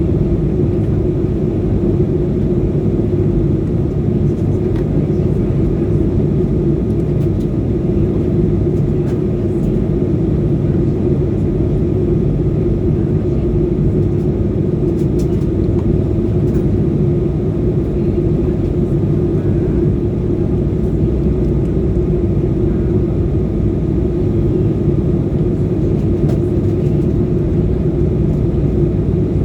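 Steady, loud drone of an airliner cabin in flight: engine and airflow noise with a constant low hum that does not change.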